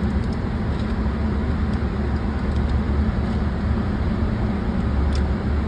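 Steady low rumble of an indoor shooting range's air-conditioning and ventilation running hard, with a faint click near the end.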